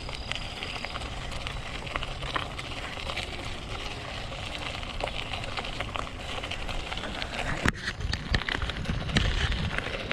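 Bicycle rolling along a dirt trail, its tyres crackling over dirt and twigs, with wind rumbling on the microphone. There is one sharp knock about three-quarters of the way through.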